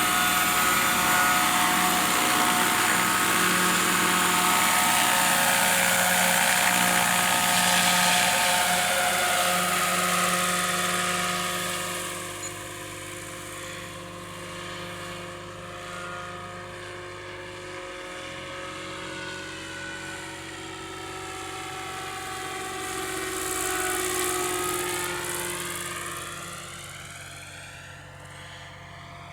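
Scale model Lockheed 286 helicopter in flight, its engine and rotor running steadily. The sound is loud at first and fades after about twelve seconds as it moves away, swells again briefly past twenty seconds as it comes nearer, then fades.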